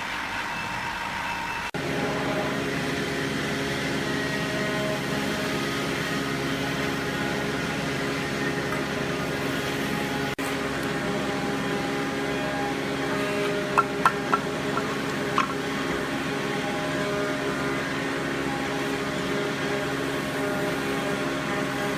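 An electric motor running at a steady speed, a constant hum with several pitches, and a few sharp clicks about two-thirds of the way through.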